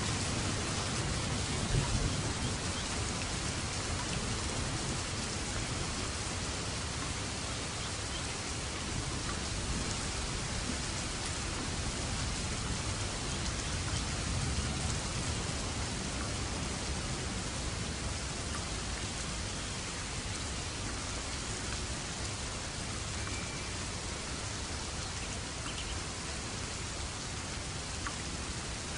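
Steady rain falling, an even hiss. A low thunder rumble dies away in the first couple of seconds.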